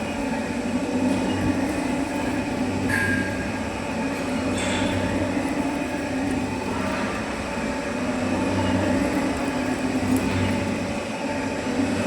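Lathe machine running with a steady mechanical drone, and a brief high squeal about three seconds in.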